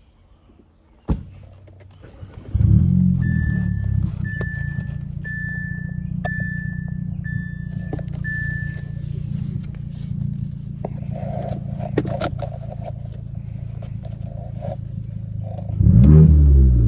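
Audi A4 with a loud exhaust being started about two and a half seconds in: it flares up and settles to a steady idle, after a sharp click just before. A dashboard chime beeps six times, about once a second, over the idle. Near the end the engine is revved.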